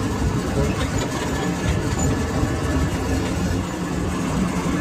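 Steady low mechanical rumble of a workshop machine running without a break.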